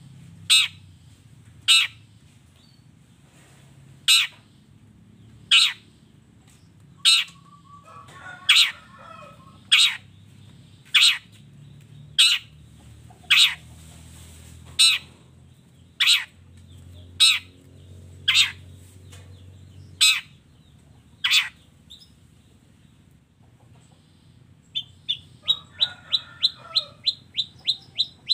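Long-tailed shrike (cendet) singing a masteran song: loud, sharp, falling whistled calls repeated about once a second, then after a short pause a fast run of short high chirps near the end. A faint low hum runs underneath.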